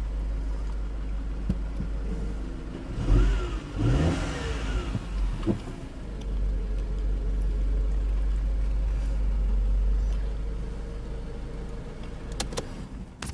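Mercedes C180 engine running on its first start after a timing chain replacement: idling steadily, blipped twice in quick succession about three and four seconds in, then settling back to a steady idle. A few sharp clicks near the end.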